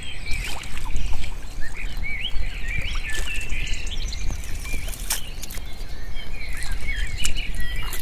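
Small birds chirping over and over in short rising and falling notes. Beneath them are scattered clicks and splashes from hands working in shallow muddy water, over a low rumble.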